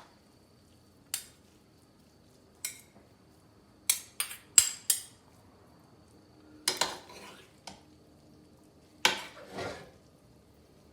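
Two spoons tossing chow mein noodles in a dish, with a few sharp clinks and scrapes of metal against the dish, in irregular clusters, the loudest a run of clinks about four to five seconds in.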